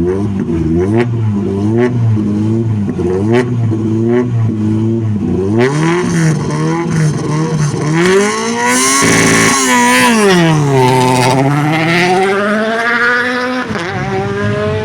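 Rally car engine at the start line being blipped, revs bouncing up and down about twice a second. About six seconds in the car launches, revving hard and climbing through the gears as it pulls away.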